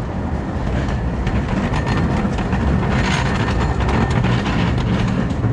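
Redwood Valley Railway's miniature steam train running along the track: a steady rumble with the repeated clicking of wheels over the rails.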